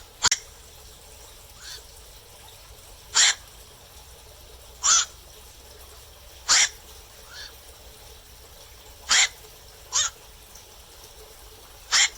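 Black-crowned night heron calling at night: single short calls, each a fraction of a second, repeated every one to three seconds, with a few fainter calls in between.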